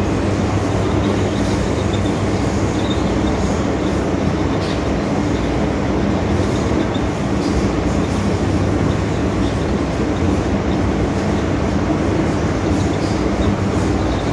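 MTR M-Train electric multiple unit running steadily at speed: a continuous rumble of wheels on the track with a steady low hum, with no braking or stopping.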